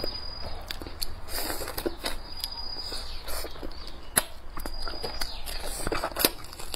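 Close-miked chewing, with wet mouth clicks and smacks coming irregularly, from someone eating a stir-fried duck dish with chopsticks. There is one sharp click about six seconds in.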